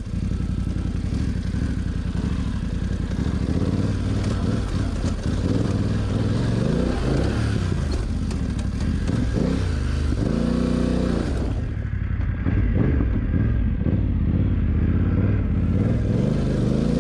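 BMW F900GS parallel-twin engine being ridden hard off-road, its pitch rising and falling over and over as the throttle is opened and closed, with clatter and a hiss of wind and dirt. Just past the middle the engine climbs steadily in pitch, then the hiss drops away for a few seconds before coming back near the end.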